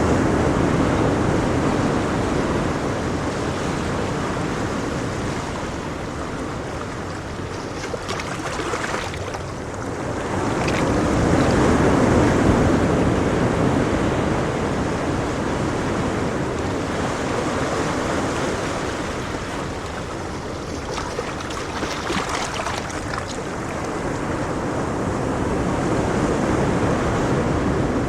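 Ocean waves breaking and washing on a shore, a steady rushing surf that swells and ebbs slowly, with a few louder surges.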